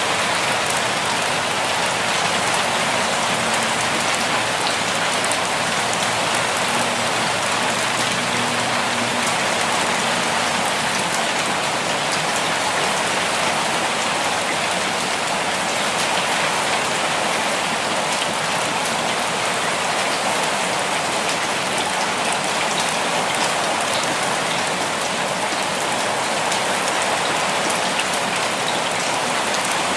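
Steady, gentle rainfall: an even hiss of raindrops falling on surfaces, with no let-up.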